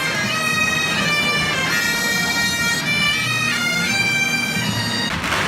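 Bagpipes playing a tune, the melody stepping from note to note over a steady drone. About five seconds in, it cuts suddenly to a loud rushing noise.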